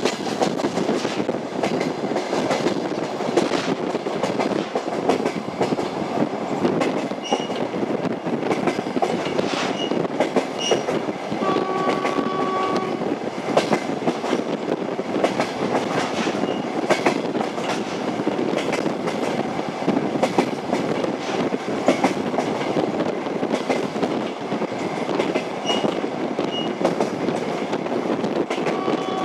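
Train running on the rails: a steady rumble with irregular clicking of the wheels over rail joints, and a short horn blast about twelve seconds in.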